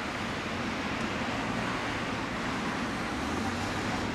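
Twin jet engines of a Boeing 777-200ER airliner at takeoff power, a steady roar that slowly grows louder as the aircraft rolls down the runway.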